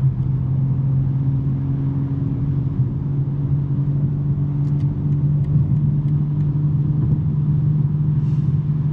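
2023 BMW M3 G80's twin-turbo 3.0-litre S58 inline-six with a non-resonated J-pipe exhaust, droning steadily while cruising at freeway speed. The pitch creeps up slightly after about four seconds.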